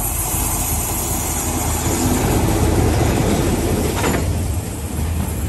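Freight train passing close by at speed: an orange diesel locomotive goes past, followed by covered hopper wagons rolling on the rails. The noise is loudest through the middle, with one brief sharp clack about four seconds in.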